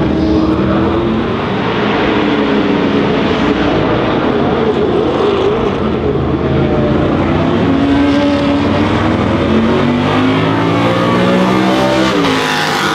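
Several Can-Am racing cars' big V8 engines running hard at racing speed, overlapping as they pass. Their pitch climbs steadily under acceleration and then drops sharply near the end as an engine comes off the throttle or changes gear.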